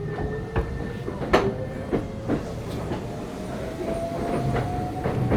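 Keisei 3500 series electric train heard from inside a motor car as it picks up speed: the traction motor whine climbs steadily in pitch over the running rumble. The wheels click sharply over rail joints several times, loudest about a second and a half in.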